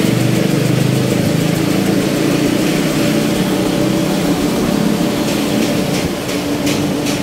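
An engine running steadily at idle, with a row of light ticks over the last two seconds.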